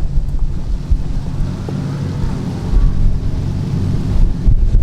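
Ford Raptor R's supercharged V8 running steadily as the truck drives, with wind rushing over the microphone.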